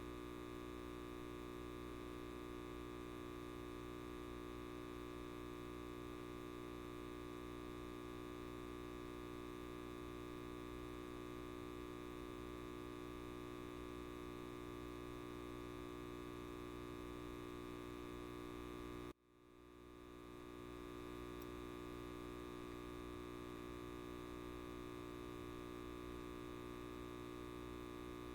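Light bulb buzzing: a steady electrical hum made of many tones. About two-thirds of the way through it cuts out suddenly, then swells back to full level over about a second.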